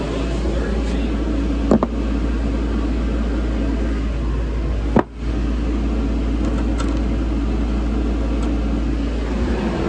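Steady low mechanical drone, with a short clack about two seconds in and a sharp knock at the halfway point, where the drone briefly drops away.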